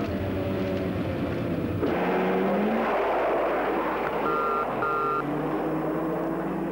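Rally car engine running at speed, heard from inside the car. About two seconds in, the sound changes to a rougher engine noise, and a car horn gives two short beeps about four and five seconds in.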